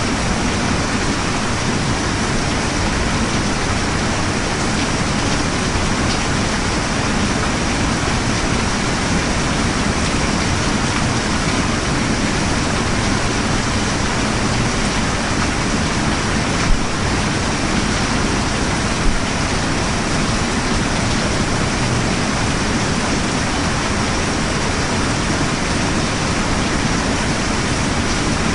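Steady, heavy rain falling, an even hiss. Two brief clicks stand out a little past the middle.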